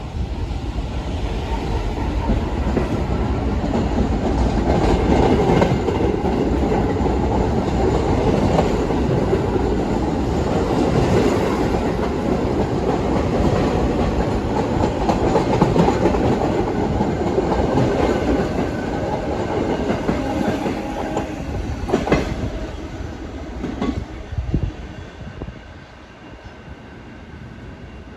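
New York City subway train running past on the track, a heavy rumble of wheels and cars with clicking over the rail joints. The noise builds over the first few seconds, holds, and fades out about three-quarters of the way through after a few last sharp clacks.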